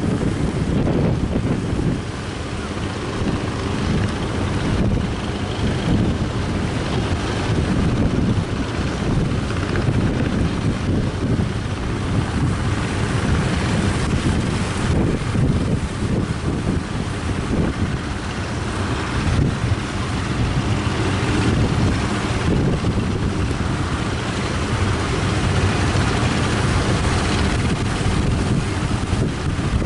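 Strong wind buffeting the microphone in steady gusts over breaking surf.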